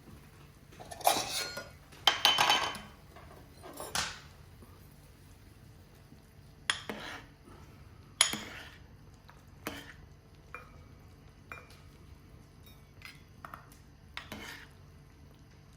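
Dishes and utensils clattering: a series of knocks and scrapes, heavier in the first few seconds, then lighter clicks and a few short ringing clinks.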